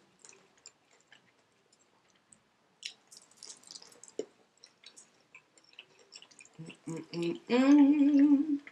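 Close-miked chewing of a crispy fried chicken wing: faint crunches and wet mouth clicks. Near the end comes a loud hummed "mmm" with a wavering pitch.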